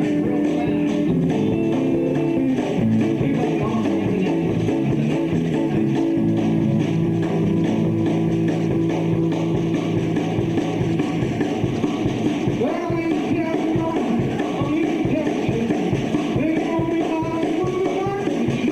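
Live rock band playing, with electric guitars, bass and drums keeping a steady beat.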